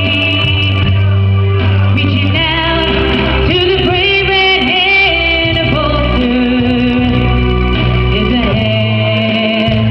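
Live music: a woman singing over instrumental accompaniment with a steady bass.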